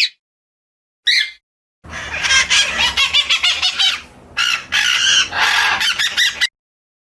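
Birds calling: a few short chirps about a second apart, then a dense run of rapid, harsh repeated calls for several seconds that breaks off briefly in the middle and stops suddenly.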